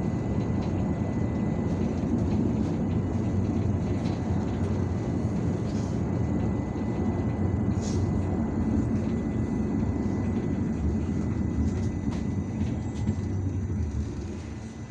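Inside an IVECO Urbanway 18M articulated city bus under way: a steady low rumble of engine and road noise with a faint steady high whine, quietening near the end.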